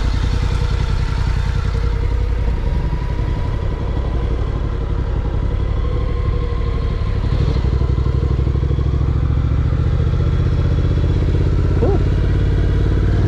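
Honda NC750X's parallel-twin engine running steadily while the motorcycle is ridden, its note shifting slightly around the middle.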